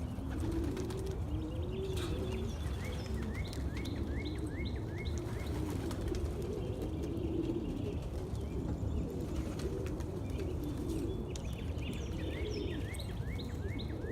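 Birds calling: low, wavering calls go on throughout, and runs of short rising chirps come twice, a few seconds in and again near the end.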